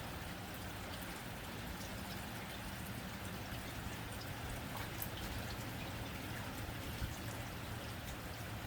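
Rain falling on a tin roof: a steady hiss with single drops ticking sharply on the metal here and there, over a steady low rumble.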